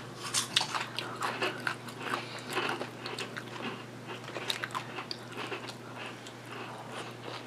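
Close-miked eating of a sub sandwich: chewing with many irregular mouth clicks, and a bite taken about six seconds in.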